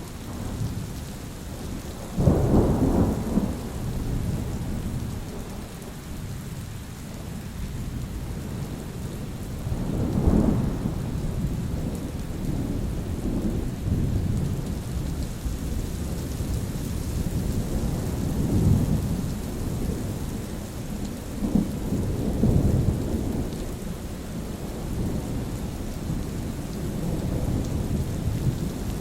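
Steady rain with rolling thunder: a sudden loud clap about two seconds in, then rumbles swelling up again about ten seconds in and twice more past the middle.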